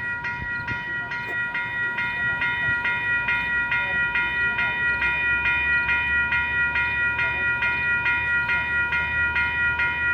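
A railway warning bell rings in a quick, even rhythm of about two to three strikes a second. A train's low rumble comes in under it from about four seconds in.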